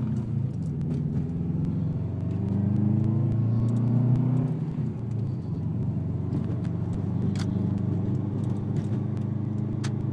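Subaru WRX turbocharged flat-four through a 3-inch Invidia N1 race turbo-back exhaust with a catless downpipe and no silencer, heard from inside the moving car. The exhaust note builds under throttle to a peak about four seconds in, eases off about a second later, then holds a steady low drone.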